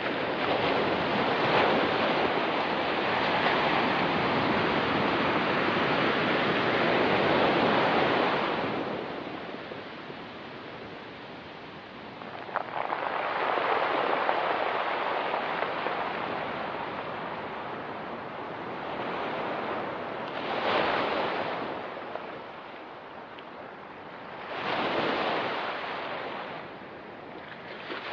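Ocean waves breaking and washing up on a rocky beach. A long surge at the start fades about nine seconds in, another swells up a few seconds later, and two shorter surges come near the end.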